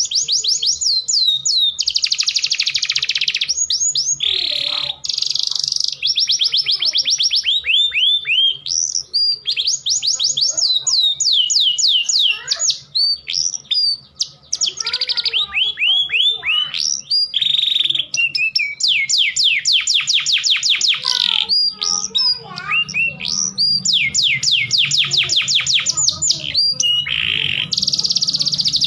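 Domestic canaries singing: long rolling trills of rapid, evenly repeated downward-sweeping notes, broken by short chirps and changes of phrase. This is the fast rolling song of a male canary in breeding condition, mixed with a hen's calling.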